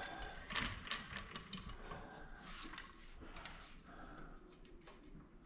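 Scattered small clicks, taps and rustling of fuel pump assembly parts being handled and fitted together by hand.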